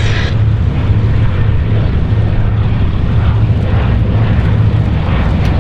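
Vintage propeller aircraft flying by, its Bristol Mercury nine-cylinder radial engine running steadily with a low, even drone.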